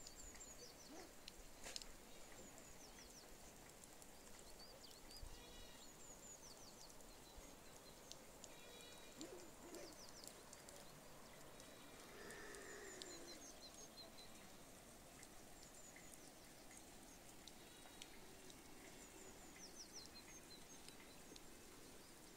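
Faint outdoor ambience with small birds chirping at intervals, and a longer, fainter animal call about twelve seconds in.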